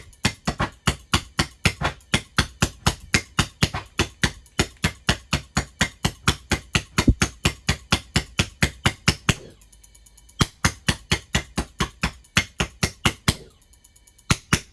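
Electric barbecue-lighter spark igniter clicking rapidly, about five sparks a second, as it tries to light a propane-air mix in a combustion chamber. The sparking stops twice, for about a second each time, in the second half. The mix is too rich on the fuel side to catch easily.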